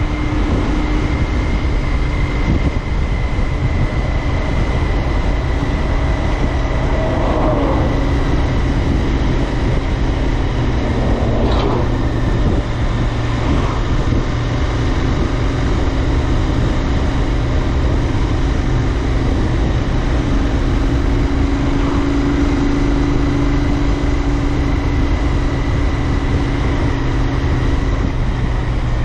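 Royal Enfield Interceptor 650's 648 cc parallel-twin engine running steadily under way, with wind and road rumble on the microphone.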